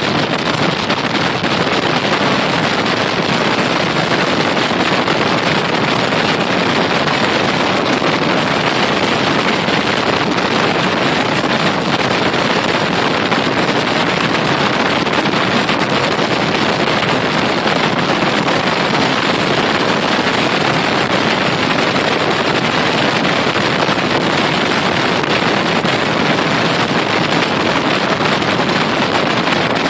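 Loud, steady rushing wind noise on the microphone.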